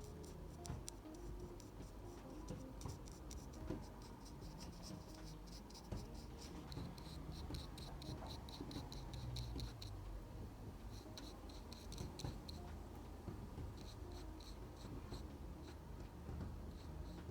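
Pencil scratching on paper in quick back-and-forth strokes, about five a second, in runs of a few seconds with short pauses between them.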